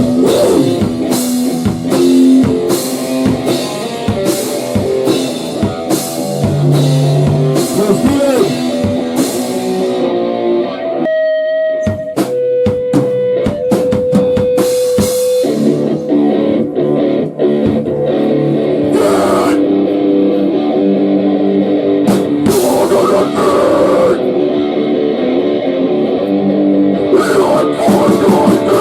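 Rock band playing guitar and drum kit. About eleven seconds in the drums stop and a lone guitar note rings on for a few seconds, then the full band comes back in.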